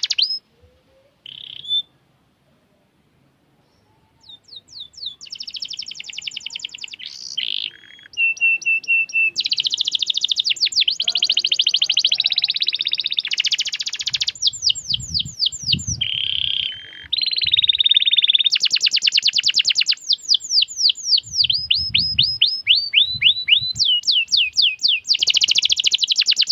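Domestic canary singing a long song of rolled trills and fast runs of falling whistled chirps, mostly high-pitched. It starts about four seconds in, after a single short chirp and a brief silence.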